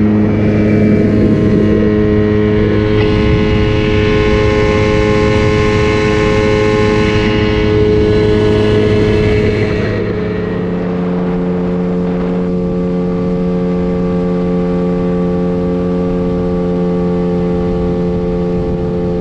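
9.8 hp outboard motors running at full throttle under way, a steady high-pitched drone. About ten seconds in the sound drops slightly and its pitch shifts, then holds steady.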